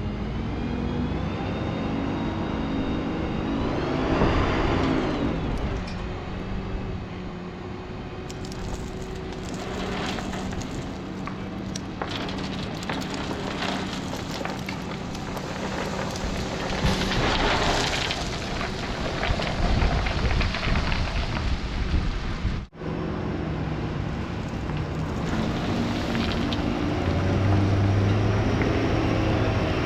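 Dump truck running, its engine revving up about four seconds in, then a long rattling rush of gravel stone. The sound cuts off abruptly about two-thirds of the way through and the truck engine runs on afterwards.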